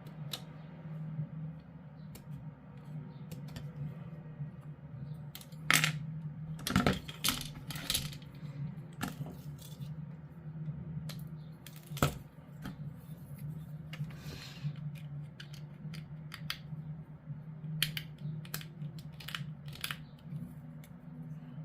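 Scattered sharp clicks and taps of hard plastic model-kit parts being handled, with a cluster of louder clicks a quarter of the way in and a single sharp click about halfway. A steady low hum runs underneath.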